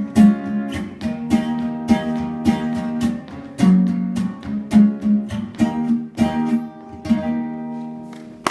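Acoustic guitar playing the closing bars of a song, a run of picked notes and strums that ends on a last chord left to ring and fade.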